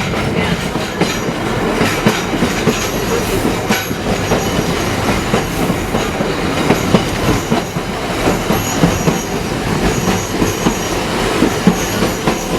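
Vintage Melbourne tram running along its rails, heard from on board: a steady rumble with irregular clatter from the wheels over rail joints and a faint wheel squeal.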